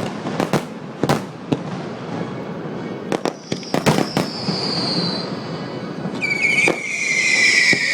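Fireworks going off: a string of sharp bangs and crackles, a whistle that falls in pitch around the middle, then from about six seconds a loud, sustained high whistle from a whistling firework, slowly dropping in pitch.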